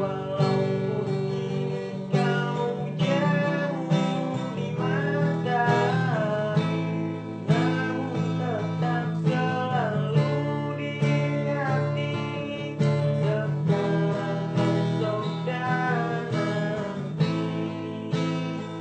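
Music: a strummed acoustic guitar playing a song, with a melody line that bends and wavers in places.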